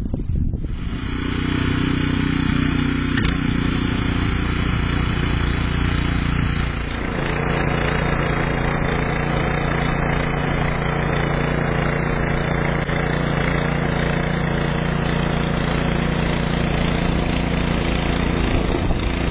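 An engine running steadily at a constant speed, with a brief dip in pitch and a change in tone about seven seconds in.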